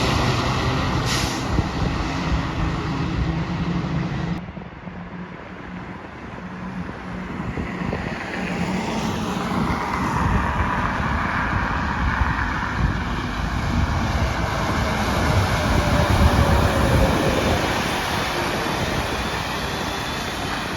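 Heavy trucks and traffic passing on a road: engine and tyre noise that swells and fades as vehicles go by, with a falling pitch as one passes. An abrupt drop in sound about four seconds in.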